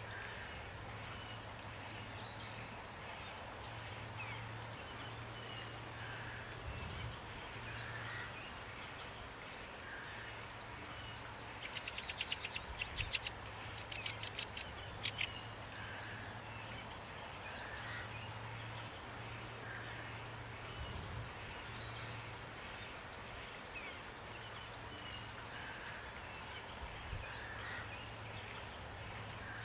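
Songbirds calling over a steady hiss of rain: many short, high, downward-sliding chirps throughout, with a rapid trill about twelve to fifteen seconds in. A low steady hum runs underneath.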